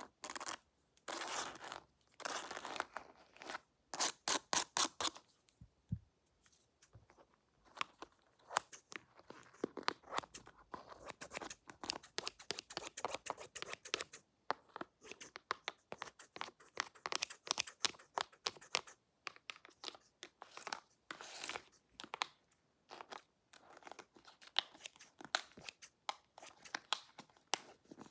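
Scissors snipping in quick runs of short, sharp cuts, as in a haircut.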